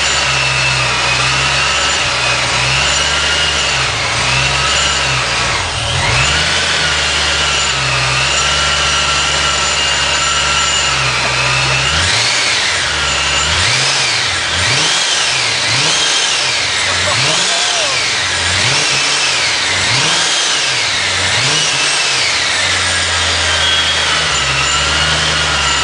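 Supercharged 2004 Ford Mustang Cobra 4.6-litre DOHC V8 through a 3-inch Stainless Works X-pipe cat-back exhaust, idling with a steady high supercharger whine. About halfway through it is blipped in a string of quick revs, roughly one a second, the whine rising and falling with each, before it settles back to idle.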